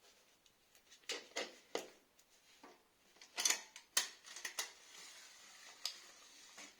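A few scattered light clicks and knocks, as of things being handled, clustered around the middle.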